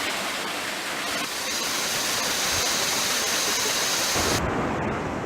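Heavy rain pouring down in a steady rushing hiss; the sharper high part of the hiss drops away about four and a half seconds in.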